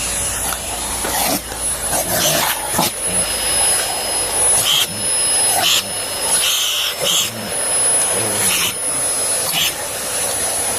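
Vacuum cleaner running steadily with a thin high whine, while a dog makes short, sharp sounds at it now and then.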